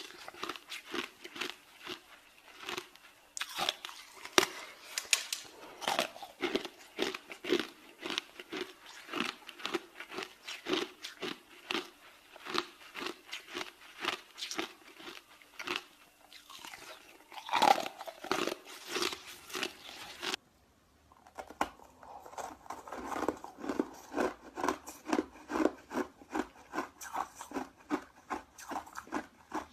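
A person chewing ice, with crisp crunches about twice a second and a few louder bites. About 20 seconds in the sound changes abruptly, and the chewing goes on duller and more muffled.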